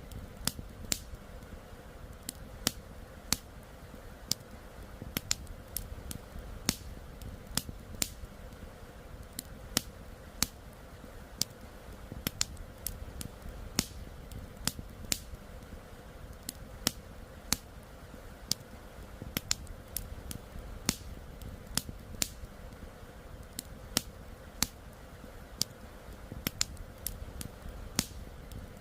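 Wood campfire crackling, with irregular sharp pops and snaps several times a second over a steady low rush of river flow.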